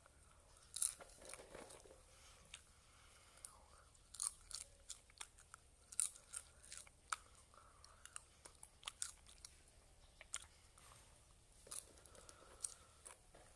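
A person chewing popcorn: quiet, irregular crunches and clicks, a few louder bites standing out about a second in and again around four, six, nine and twelve seconds.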